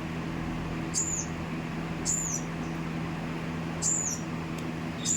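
A small bird chirping: short, high, sharp chirps, four of them, repeated at uneven gaps of a second or more. A steady low hum runs underneath.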